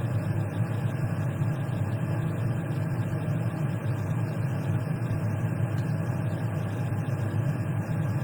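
Steady low hum with a faint even background noise, unchanging throughout.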